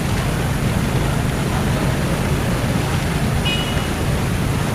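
Steady low rumble of boat engines running, mixed with fast-flowing water through the canal culvert. A brief high tone sounds about three and a half seconds in.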